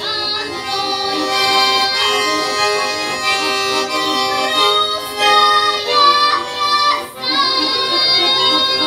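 Accordion playing the closing instrumental passage of a song accompaniment: held chords with a moving melody line over them.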